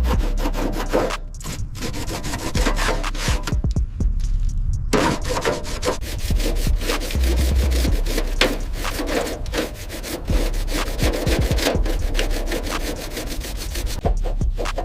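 Rapid, repeated rubbing and scraping strokes on a hard surface, thinning out briefly about four seconds in, with a low bass tone now and then.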